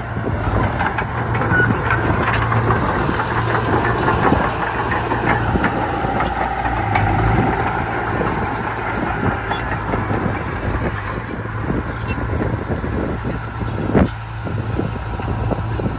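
Heavy diesel earthmoving machinery running steadily, with many irregular clanks and rattles and one sharp knock near the end.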